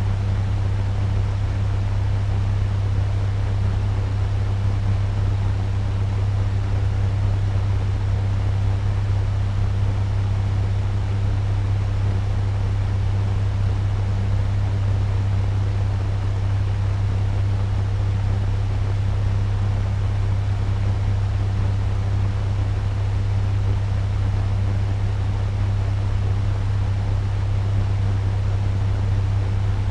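Turbo fan running steadily at medium speed: an even rush of moving air over a strong, constant low motor hum.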